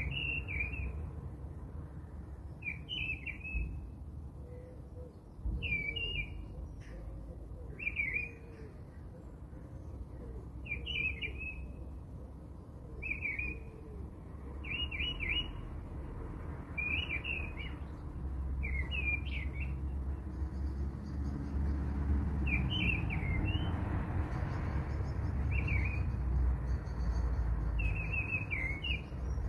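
A small bird chirping over and over, one short call every two to three seconds, over a steady low rumble that grows louder about two-thirds of the way in.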